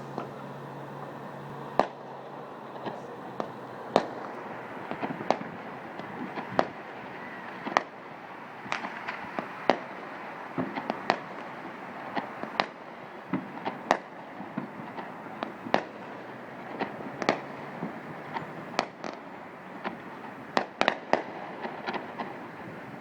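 Fireworks going off: dozens of sharp bangs and pops at irregular intervals, some in quick clusters, over a steady background hum.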